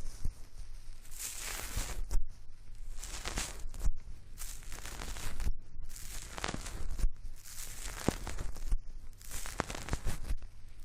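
Close-miked ASMR hair-wash sounds: fingers scrubbing and rubbing right against the microphone, coming in uneven surges of crackly rustling with a few sharp clicks.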